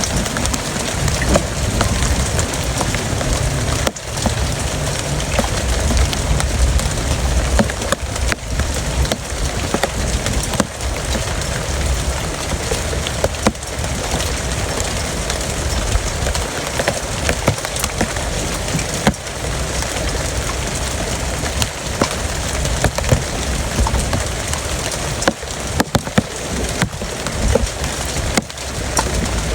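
Heavy rain pouring steadily, with many sharp drop impacts close by.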